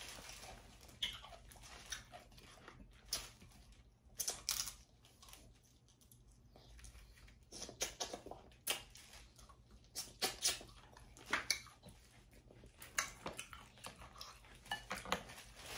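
Close-miked eating sounds: wet chewing and lip smacks, mixed with the clicks and crackle of seafood-boil shellfish shells being picked apart by hand. They come as irregular sharp smacks, with a quieter pause about midway.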